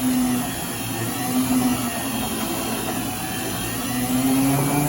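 Ice-cream blending mixer motor running steadily, churning a thick Blizzard of ice cream and toppings, with a low hum that wavers a little as the mix loads it.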